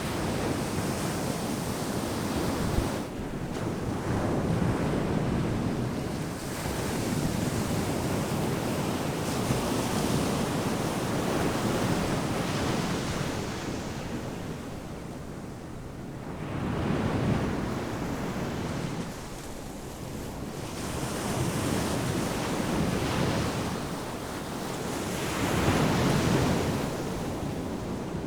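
Ocean surf breaking and washing onto the beach: a continuous rushing wash that swells and eases over several seconds as each wave comes in, with louder surges a few times.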